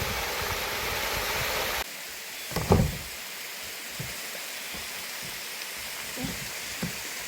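Steady rush of water from a mountain valley stream, louder in the first couple of seconds and then suddenly lower. A single loud thump a little under three seconds in, with a few faint knocks later.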